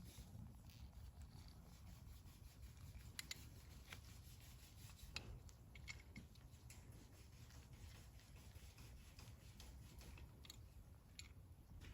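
Near silence over a low steady hum, with a few faint, short clicks and rubs of something being handled.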